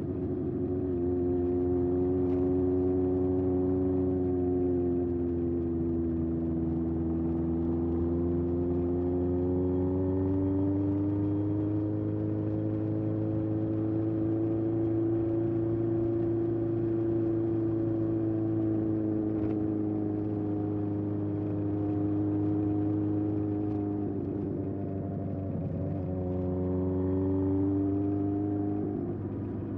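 Honda CB750F's air-cooled inline-four with a Yoshimura exhaust running under way, its pitch easing down and climbing again slowly with the throttle. Near the end the note breaks briefly and comes back at a new pitch, as at a gear change.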